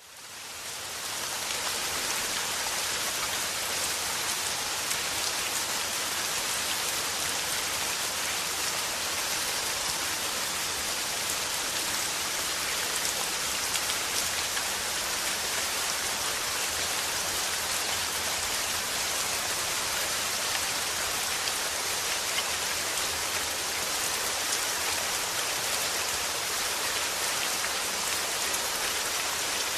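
Steady rain falling, a dense even hiss of drops pattering on a surface, fading in over the first second or two.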